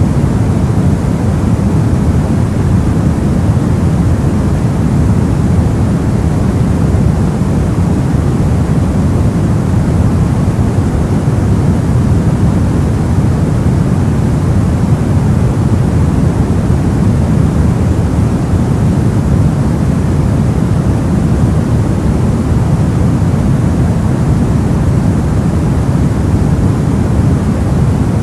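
Steady soft white noise for sleep, a deep even hiss weighted to the low end, unchanging throughout.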